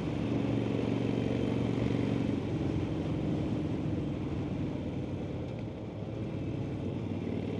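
Harley-Davidson Sportster XL1200N's air-cooled V-twin running steadily at about 70 mph under a haze of wind and road noise. It gets a little quieter about two and a half seconds in.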